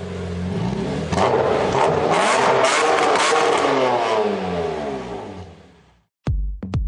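Car engine revving: a steady pitched hum swells into rising and falling pitch sweeps with a few sharp crackles, then fades out about six seconds in. A thumping electronic music beat starts just before the end.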